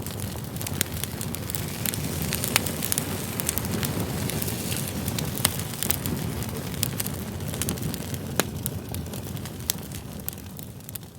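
Campfire of firewood logs burning: a steady low rush of flames with sharp, irregular crackles and pops from the burning wood, a few standing out louder.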